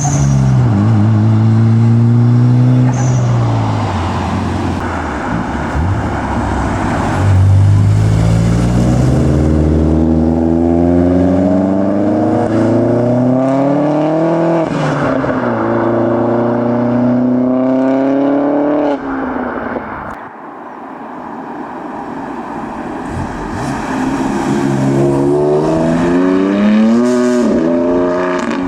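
Modified cars accelerating hard away, engines revving up through the gears: pitch climbs, drops at each shift, and climbs again, one car after another. A quieter spell a little after two-thirds of the way through, then another engine builds and revs up near the end.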